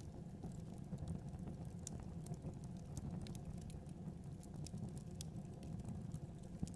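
Fire burning in a fireplace: small irregular crackles and pops over a steady low rumble of flame.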